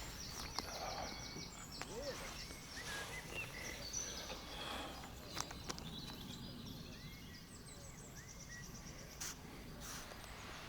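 Small birds singing and calling: fast high trills near the start and again near the end, with short chirps in between. Under them is a steady low outdoor rumble, with a few sharp clicks.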